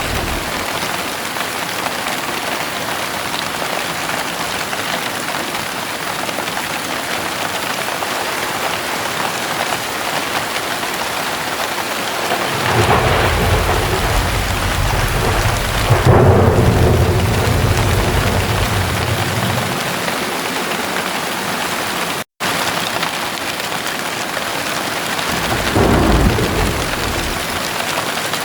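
Heavy rain falling steadily, with a long roll of thunder that builds past the middle, peaks and rumbles away, and a shorter thunder rumble near the end. The sound cuts out for an instant between the two.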